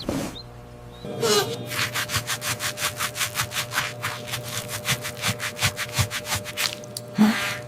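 A quick, even run of scrubbing strokes, about five a second, lasting around five seconds, with a swoosh just before it starts and another after it stops, over faint background music.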